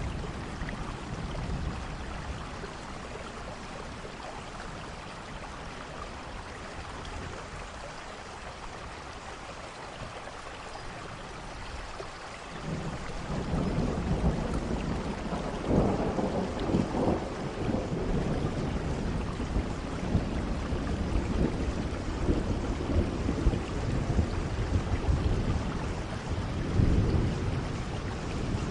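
Steady rain falling in a thunderstorm. About halfway through, a low rumble of thunder builds and keeps rolling, with irregular louder peaks, until the end.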